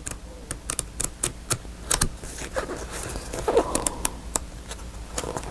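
Sheets of a paper pad being leafed through and handled: an irregular string of light ticks and paper rustles, with a fuller rustle about two and a half seconds in and again near three and a half seconds.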